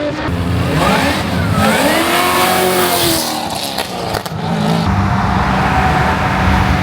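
Car engines revving up and down at a car meet, with a few sharp cracks in the middle, then settling into a steady engine drone from about five seconds in.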